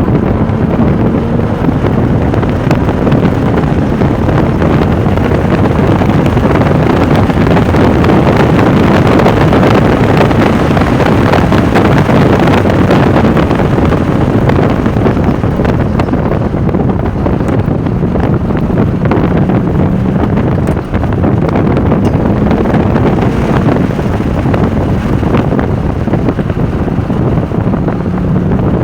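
Porsche 996 Turbo's twin-turbocharged flat-six running hard on a track lap, heard from on board. Heavy wind noise on the microphone nearly buries it, with faint engine pitch that rises and falls.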